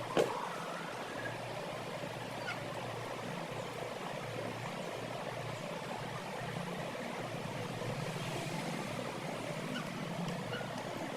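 Steady background noise with a sharp knock just after the start and a few faint, short high chirps.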